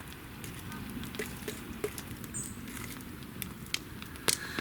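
Campfire crackling, with scattered sharp pops and snaps over a low steady rumble; the loudest pop comes near the end.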